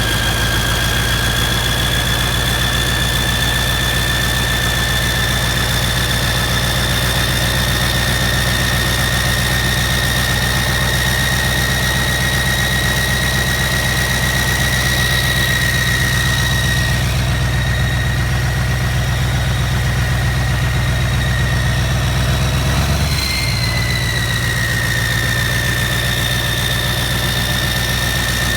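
Scania 140's V8 diesel engine idling steadily, with a steady high-pitched whistle running over it. About three-quarters of the way through, the engine note falters for a moment and the whistle briefly rises, then settles slightly lower.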